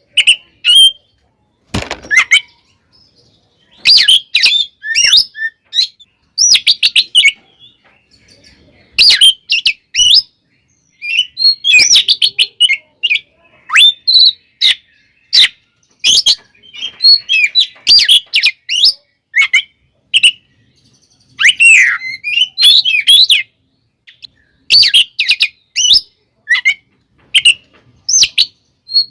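Oriental magpie-robin (kacer) singing in its agitated fighting style: loud, rapid runs of high whistles and chirps in phrases of a second or two, broken by short pauses.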